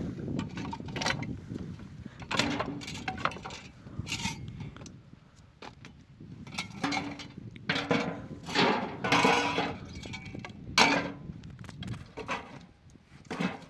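Irregular knocks and clinks of objects being handled, some with a brief ring, over a low rustle.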